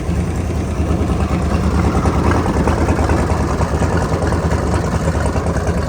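Jet boat's inboard engine running steadily, with a little lifter tick that the owner is keeping an eye on.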